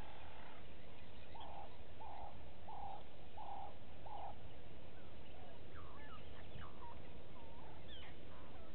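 A bird giving five evenly spaced low hooting or cooing notes, about one every 0.7 seconds, followed by a scatter of short, higher chirps and whistled sweeps.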